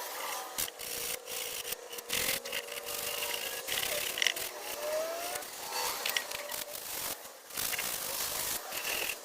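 Sandpaper rubbed by hand over oak, in irregular back-and-forth strokes scuffing off the old varnish.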